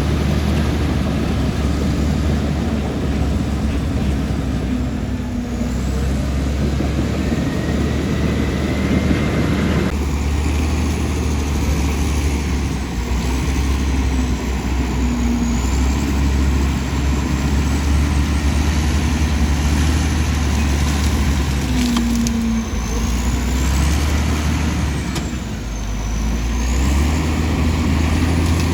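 Komatsu D65E crawler bulldozer's diesel engine running steadily under load, a heavy low drone that dips briefly near the end and picks back up. High thin squeals sound a few times over it.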